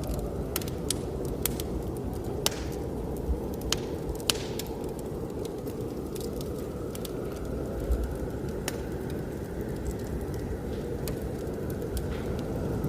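Wood fire crackling in a fireplace, with scattered sharp pops that come most often in the first half, over a steady low rumble of blizzard wind.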